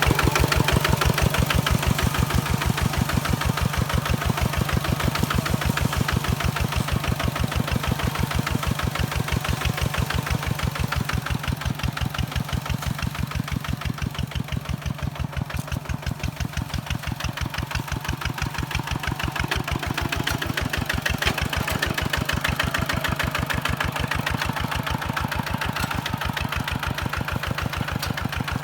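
Kubota tractor diesel engine running steadily with an even, rapid beat.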